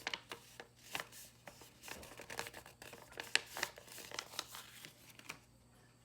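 A square of origami paper being folded and creased by hand into a diamond shape: irregular crisp rustles and crackles that stop about five seconds in.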